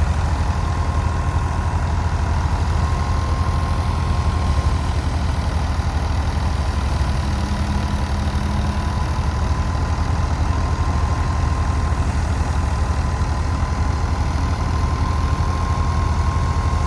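Tractor diesel engine running steadily at a constant speed, with a thin steady high-pitched whine over the low rumble.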